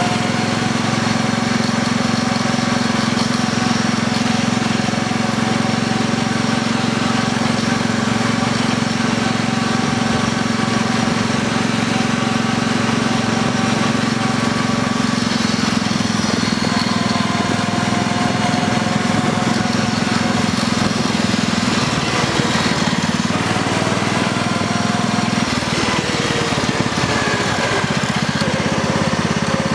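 Engine of a modified Kubota lawn tractor running steadily as the tractor is driven, through its stock exhaust. The engine note shifts about two-thirds of the way through.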